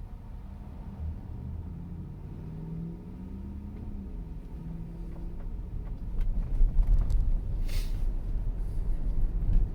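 Low road and tyre rumble inside an electric car's cabin while driving, growing louder over the last few seconds, with a short hiss near the end.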